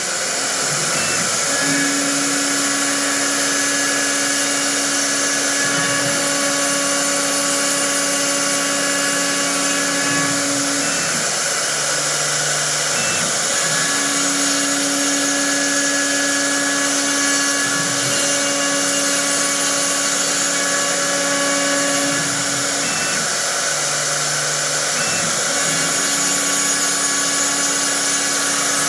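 CNC wood lathe running: a steady motor whine with a few held tones that drop out and shift pitch twice, around 11 and 23 seconds in, over a continuous high hiss.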